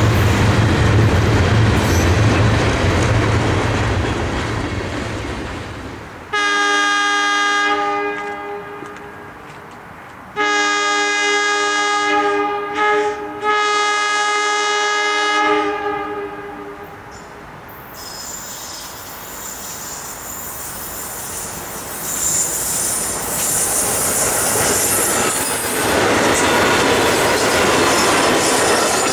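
Freight cars rumbling past, then an approaching SEPTA Silverliner electric commuter train sounds its horn about six seconds in: two long blasts, a short one and a long one. The train then passes close by with a rising clatter of steel wheels on rail.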